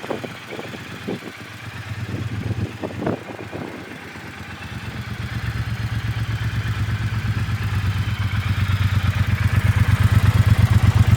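Triumph Bobber's parallel-twin engine idling with an even low pulse, which grows steadily louder over the second half. A few short knocks come first.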